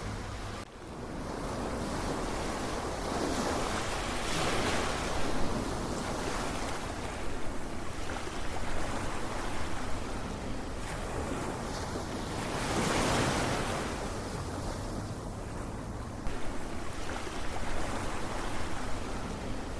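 Ocean surf: waves washing in and drawing back as a steady rush, swelling louder about four seconds in and again around thirteen seconds. A brief drop in the sound comes just under a second in.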